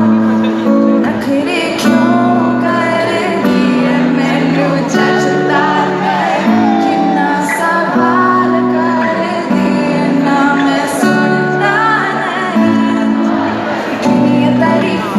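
Live amplified song: a woman singing a melody over guitar chords.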